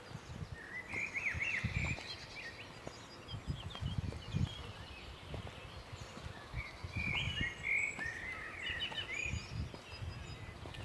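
Small birds singing in quick twittering phrases, one about a second in and another near the end, over intermittent low rumbles and thumps.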